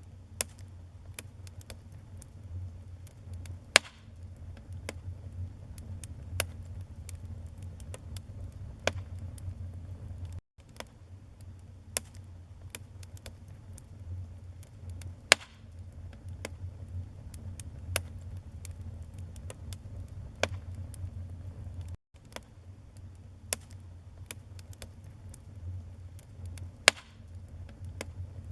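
Wood fire burning in a fireplace: logs crackling with scattered sharp pops over a low steady rumble of the flames, three of the pops much louder than the rest.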